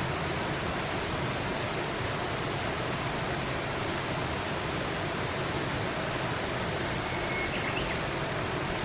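Steady rushing noise of flowing water, as from a stream or weir. A brief thin whistle sounds about seven seconds in.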